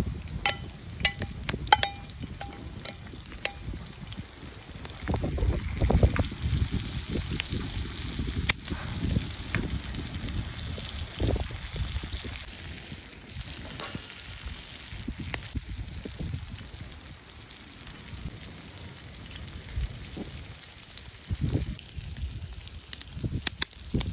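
Sliced vegetables sizzling as they fry on a wide iron griddle over a wood fire, with a few clinks in the first seconds as they are scraped off an enamel bowl with a wooden spatula. Low gusts of wind rumble on the microphone.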